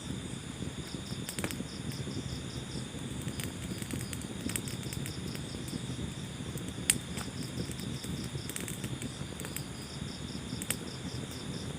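Wood fire burning in a fireplace: a low steady rumble with scattered sharp crackles and pops, the loudest pop about seven seconds in. A high, rapid chirping recurs in short runs over it.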